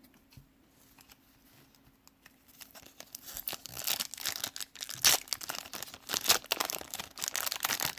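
Wax-paper card pack being torn open and crinkled, starting about two and a half seconds in after a quiet start, with dense crackling and tearing.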